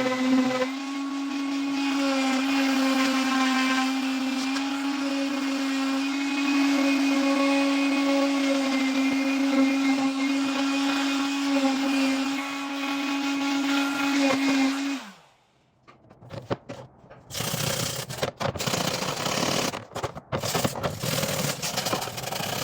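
Electric grinder running steadily at a constant pitch, grinding rust off a steel saw blade. About fifteen seconds in it is switched off and its pitch falls as it spins down. After a short silence come irregular scraping and handling noises.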